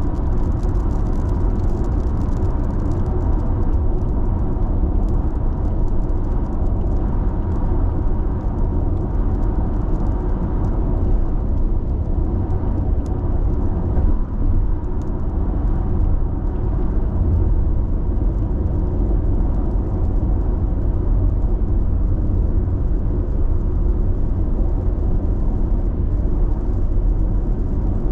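Steady road and tyre noise inside a car cruising at constant expressway speed: a low, even rumble with a faint hum above it.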